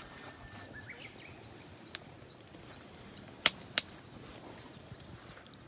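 A bird calling over and over in short high chirps, two or three a second, with two sharp clicks in quick succession a little past halfway.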